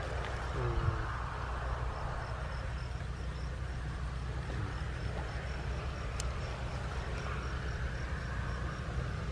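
Outdoor field ambience: a steady low rumble, like wind on the microphone, with a faint high chirp repeating about three times a second, typical of an insect, from about two seconds in.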